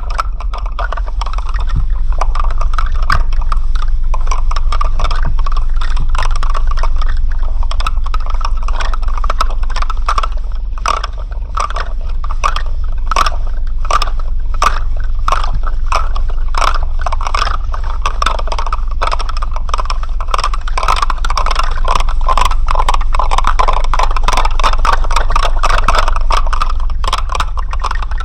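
Loud, continuous rattling: a dense clatter of rapid clicks over a steady low hum, with the clicks standing out most sharply through the middle.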